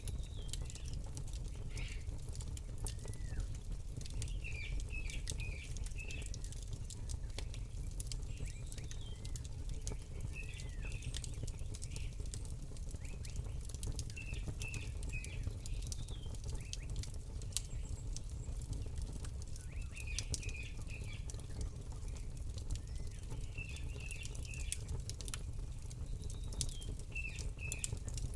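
Campfire crackling, with scattered sharp pops over a steady low rumble, while a bird repeats a short burst of chirps every five seconds or so.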